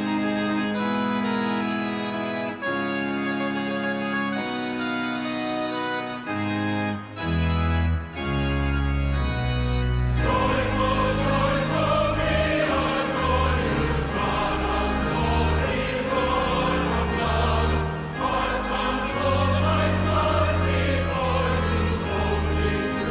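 Organ playing sustained chords that change in steps; about ten seconds in, a choir joins and sings over the accompaniment.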